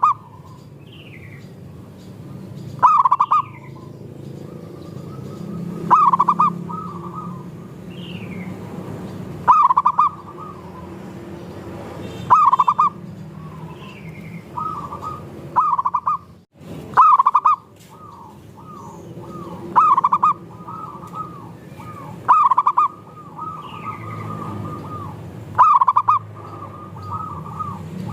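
Zebra doves (perkutut) cooing in a group. A loud coo phrase comes about every three seconds, with softer coos between, and short falling chirps sound higher up.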